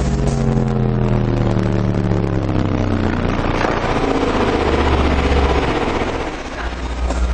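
Alpine Type-R SWR-1542D 15-inch car subwoofer playing loud deep bass notes at high excursion: tones that glide down in pitch over the first few seconds, then a sustained low note, with a short drop in level near the end.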